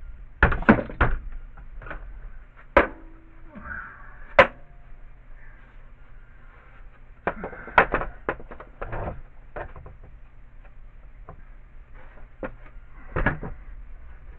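Scattered clicks and clunks of a bolt, nut and metal strip being handled against a snow shovel's blade while trying to thread the nut on, with a cluster about half a second in, two single knocks, a second cluster past the middle and one more near the end.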